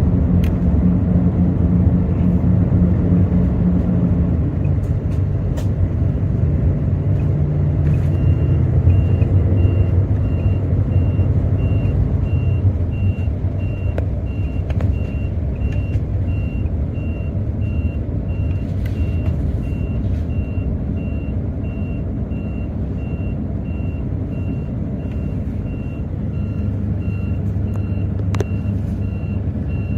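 Hino J08E-VD inline-six diesel of a Hino RN8JSVU bus running, heard from inside the bus; the engine note drops about four seconds in and settles lower after about twelve. From about eight seconds in, a steady electronic beep repeats about twice a second.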